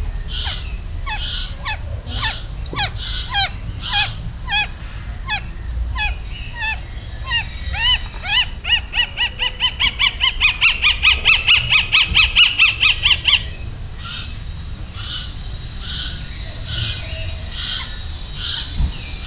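A bird calling: a string of short, curved notes, then a fast run of louder notes, about four or five a second, that stops suddenly a little past halfway through. Fainter calls follow over a low background rumble.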